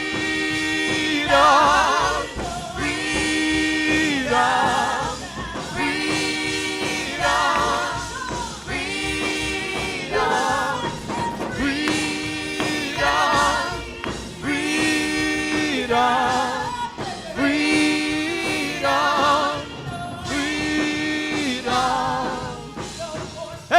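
Gospel music with singing in a church service: a short phrase repeats about every second and a half, a wavering higher line over a held lower note.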